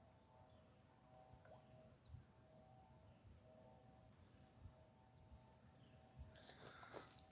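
Faint outdoor ambience: a steady high insect drone, like crickets, with no other sound for most of it. Footsteps on the trail start near the end.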